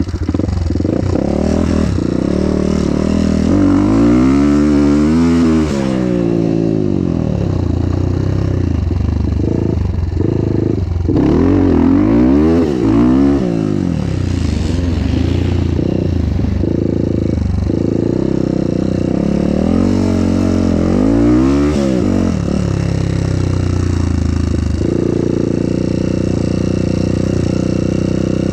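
Dirt bike engine being ridden on a motocross track, revving up and easing off several times as it goes through the course.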